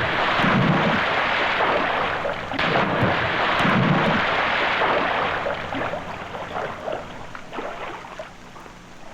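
A long, loud, noisy rumble that starts suddenly at full strength, swells a few times in the first four seconds, then slowly dies away over about nine seconds, with scattered crackles in the later part.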